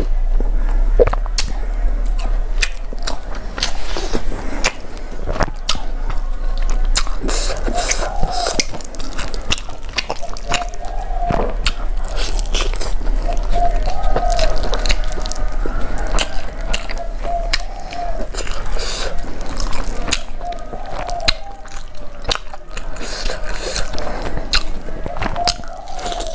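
Close-miked eating sounds: repeated wet chewing, lip smacks and crunches as chicken and rice are eaten by hand, with a sip from a glass bowl at the start.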